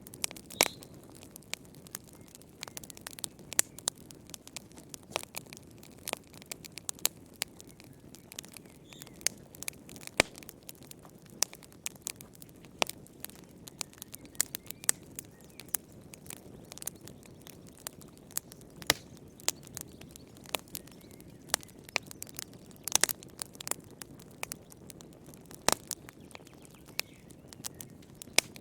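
Wood fire burning in a fireplace: a soft low rumble of flames with frequent sharp, irregular crackles and pops, a few of them louder.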